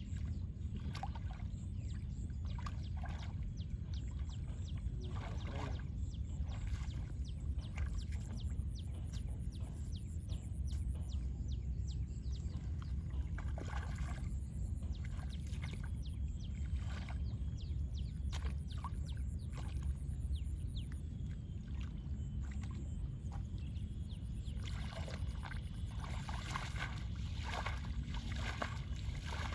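Water splashing and sloshing in many short irregular strokes, over a steady low rumble, with the splashes busiest near the end.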